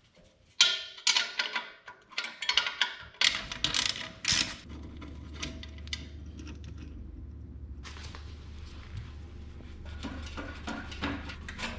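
Hand tools on exhaust hardware: a socket ratchet and wrench clicking and metal parts clanking as the stock muffler's clamp and hanger bolts are undone. The sharp clatter comes over the first few seconds, then a steady low hum runs underneath with scattered clicks.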